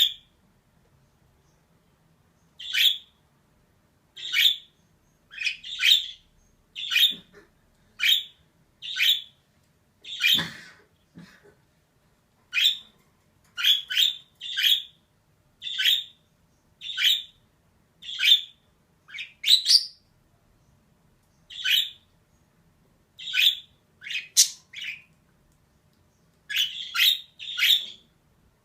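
Female budgerigar giving short, sharp chirping calls, about one a second with a few quick doubles and short pauses between them.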